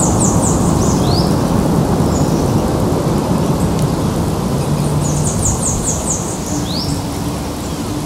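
Sped-up field recording: a bird's song phrase, a quick run of high notes ending in a short rising note, heard twice about five seconds apart, over a loud steady rushing noise.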